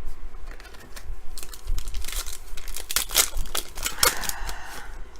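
A trading-card pack wrapper being torn open and crinkled, a run of sharp crackles followed by a short rustle as the cards come out.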